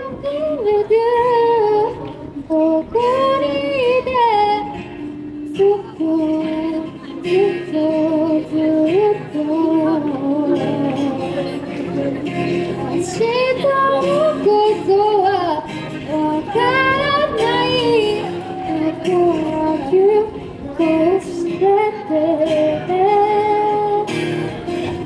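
A woman singing a song live, amplified, over steady instrumental accompaniment.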